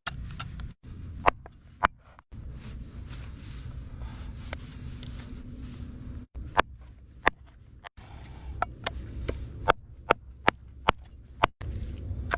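Cleaver chopping a frozen whole chicken into pieces: sharp single chops, a few at first, then a run of about two a second in the second half.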